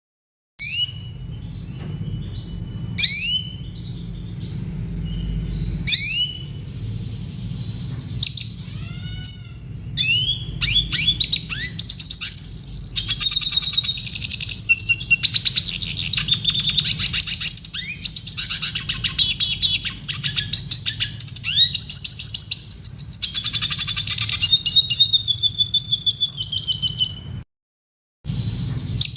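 Red siskin singing: sharp, downward-sweeping whistled notes, then long runs of fast twittering trills, over a low steady hum. The sound drops to dead silence for under a second just after the start and again near the end, where the recording is spliced.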